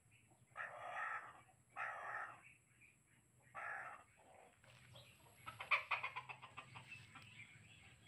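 Harsh bird squawks: three short calls in the first four seconds, then a quick run of clucking notes about six seconds in.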